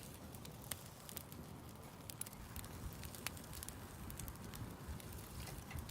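Wood campfire crackling, with scattered sharp pops over a low steady rush.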